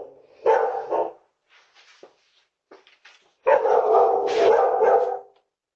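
A dog barking, heard through a doorbell camera's microphone: a short bark about half a second in, then a longer, drawn-out bark lasting nearly two seconds about three and a half seconds in.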